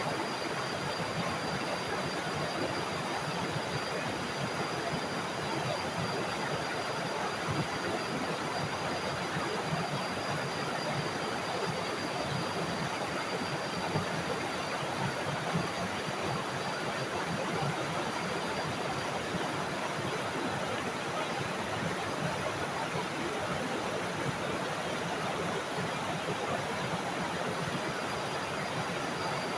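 Small forest waterfall: water falling and rushing steadily, with a thin, steady high tone above it.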